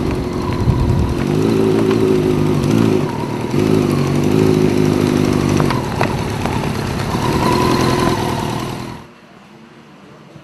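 Motorcycle engine running and revved twice, the pitch rising and falling each time, then the sound drops off sharply about nine seconds in.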